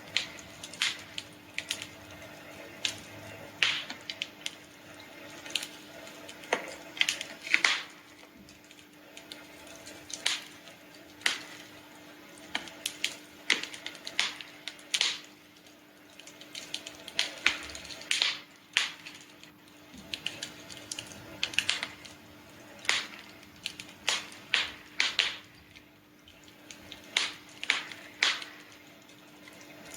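Campfire of burning wood crackling, with irregular sharp pops and snaps, one to three a second, over a low hiss.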